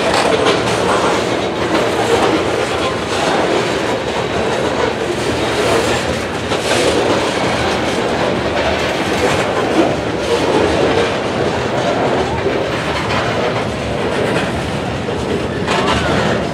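Freight cars of a slow CSX mixed freight train rolling past: a steady rumble of steel wheels on rail, with irregular clicks of wheels passing over the rail joints.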